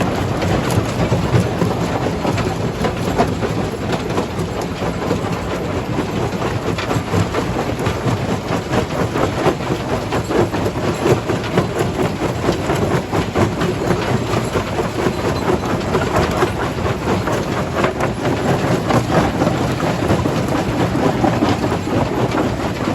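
Stone jaw crusher running and crushing rock: a constant heavy rumble and grinding, with rapid, irregular cracks and knocks of stone breaking throughout.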